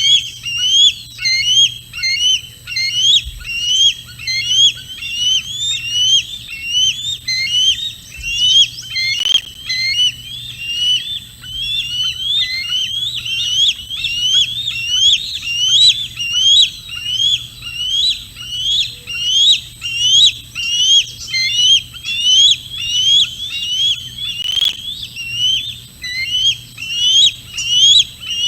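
A bird calling a short rising note over and over, about two calls a second, in an unbroken steady series.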